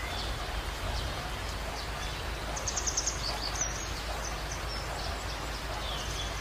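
Small birds chirping with short, high calls scattered throughout, including a quick trill about three seconds in, over a steady background hiss of outdoor ambience.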